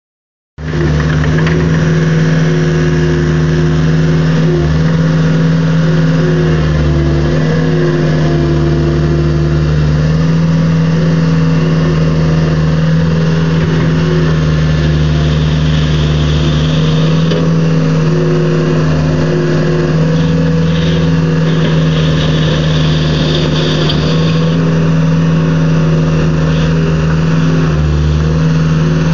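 Cat 262B skid steer's diesel engine running at a steady speed, starting about half a second in. A low rumble under the engine note comes and goes.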